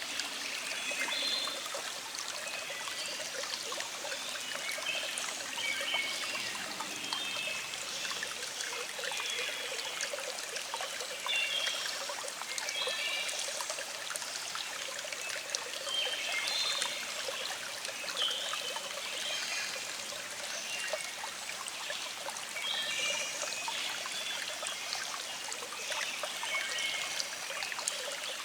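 Small stream flowing in a steady trickle, with birds singing short chirping phrases every few seconds in the background.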